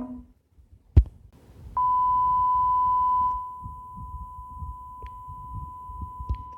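A sharp click, then a steady electronic beep at one high pitch: loud for about a second and a half, then dropping to a quieter level and holding on, over a faint low rumble.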